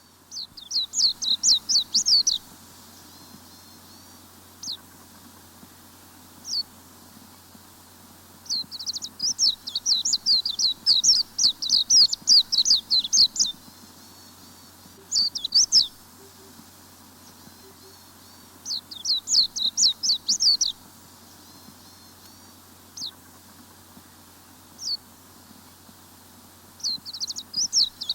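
Wild songbird singing in bouts of rapid, high, downward-slurred notes. Most bouts last one to two seconds and one runs about five seconds, with single isolated notes between them.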